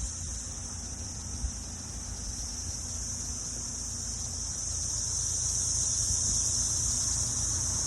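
A chorus of 17-year periodical cicadas: a steady, high-pitched drone that swells slightly in the second half.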